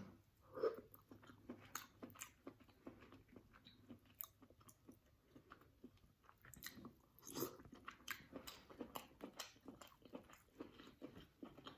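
A person chewing king crab meat close to the microphone: faint, irregular wet mouth smacks and clicks.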